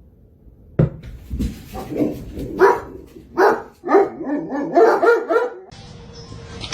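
A dog barking in a quick run of short, pitched barks and yips, starting about a second in and stopping around five and a half seconds, followed by a steady hiss.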